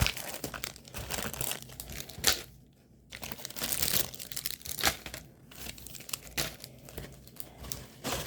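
Packaging of a diamond painting kit being handled and crinkled, in irregular crackly bursts with a short pause about two and a half seconds in.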